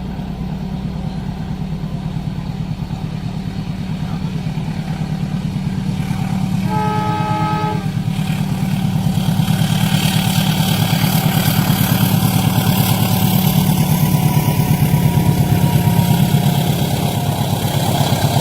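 Indonesian train approaching and passing a level crossing: a steady engine rumble grows louder, a horn sounds one chord-like blast about a second and a half long about a third of the way in, then the noise of the train rolling past on the rails rises and holds.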